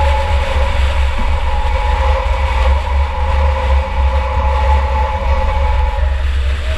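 2004 Chevy Impala race car's engine running at steady revs, with a heavy low rumble and a steady two-note whine that fades out about six seconds in, heard from inside the car.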